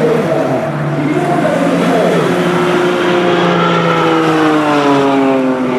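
Aerobatic CAP 231 propeller plane's six-cylinder Lycoming piston engine running loud, its pitch sliding steadily downward over the second half as the plane flies by or changes power.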